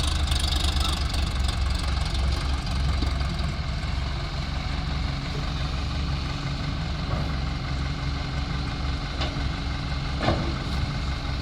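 Heavy diesel engines of an excavator and tractors running steadily with a low pulsing engine note. A single sharp knock comes about ten seconds in.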